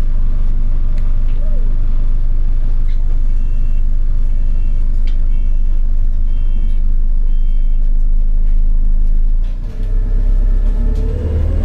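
Enviro400 hybrid bus with BAE Systems drive heard from on board, a steady low drone. A few seconds in comes a run of short, evenly spaced electronic beeps. Near the end the low rumble dips briefly, then comes back louder and deeper.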